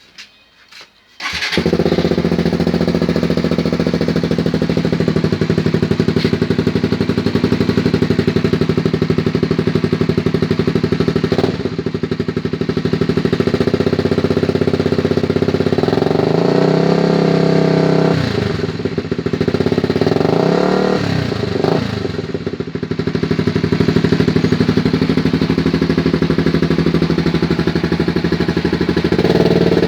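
Suzuki GSX 150 single-cylinder motorcycle with an SJR Gasello aftermarket exhaust, started about a second in and left idling loud and steady. Past the middle the throttle is blipped three times, the pitch rising and falling, and it begins revving again right at the end.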